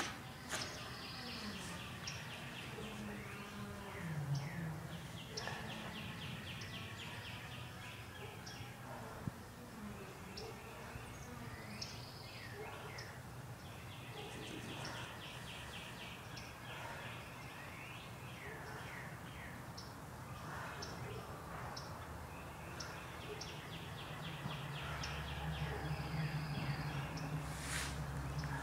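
Wild birds singing: a fast, even trill that recurs about every nine to ten seconds, among many short chirps. A low steady hum comes up near the end.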